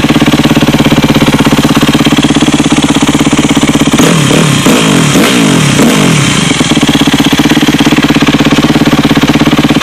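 2006 Yamaha YZ250F's 250 cc four-stroke single-cylinder engine idling steadily on a cold start, then revved in several quick throttle blips about four seconds in before dropping back to idle. The engine is still cold and bogging a little.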